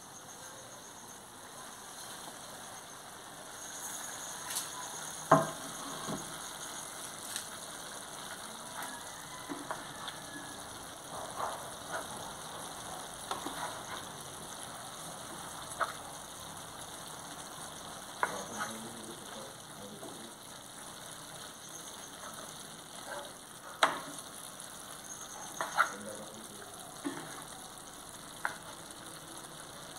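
Peeled shrimp and vegetables frying in a hot metal pan with a steady sizzle, while a wooden spoon stirs them with scrapes and several sharp knocks against the pan. The loudest knock comes about five seconds in, and two more come near the end.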